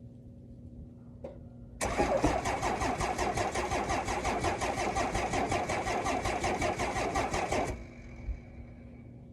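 First-generation Cummins 5.9-litre inline-six diesel being cranked by its starter on a cold start, with an even, quick rhythm of compression strokes for about six seconds. The cranking then stops abruptly without the engine catching.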